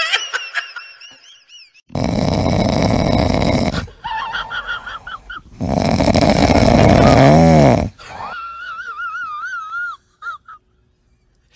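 A sleeping yellow Labrador retriever snoring loudly in two long snores, each about two seconds. A thin, wavering high whimper runs before, between and after the snores.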